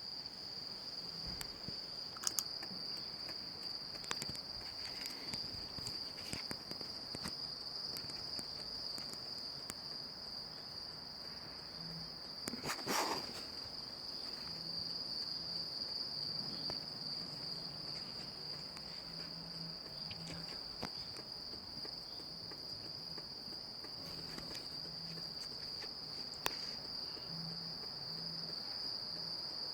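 Steady, high-pitched insect chorus, with a few scattered clicks and one louder brief rustle about halfway through.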